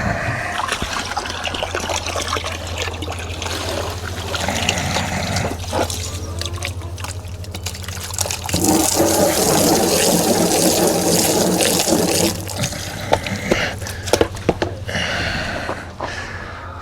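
Water running from a hose into a chicken water tank, a steady splashing fill. It grows louder for a few seconds in the middle, and there are a few sharp clicks near the end.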